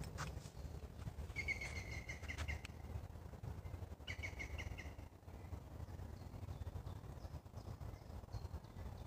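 A songbird singing two short bursts of rapidly repeated notes, the second a couple of seconds after the first, with a few fainter high notes later on, over a low steady rumble.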